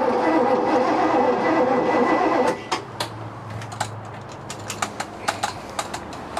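Boat's Chevy 350 V8 cranking on its starter without catching, then the starter cuts off suddenly about two and a half seconds in. A few light clicks and ticks follow. The engine does not fire, which the crew put down to no spark.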